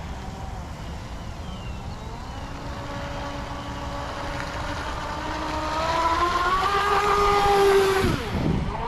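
Brushless electric motor and propeller of a Pro Boat BlackJack 26 RC catamaran running at speed on 4S, a whine that climbs in pitch and grows louder as the boat approaches, then drops sharply in pitch as it passes by near the end.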